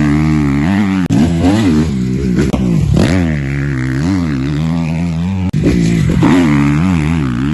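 Kawasaki KX250F's single-cylinder four-stroke engine revving hard on and off the throttle around a motocross track, its pitch climbing and falling every second or so. The sound cuts out very briefly about a second in and again about five and a half seconds in.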